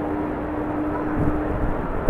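Airliner engine noise with a steady hum, heard through strong wind buffeting the microphone, with a low thump just past the middle.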